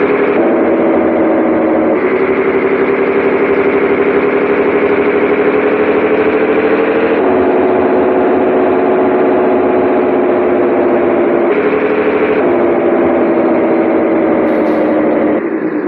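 Scania 113H 360 truck's 11-litre six-cylinder diesel engine running steadily. Its note drifts slowly in pitch and steps abruptly up or down several times, with a brief drop in level near the end.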